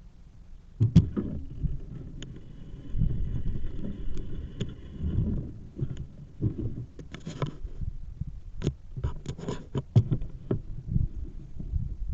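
Bicycle riding over a rough path: an uneven low rumble with many sharp clicks and knocks, and a steady high whine for about three seconds near the start.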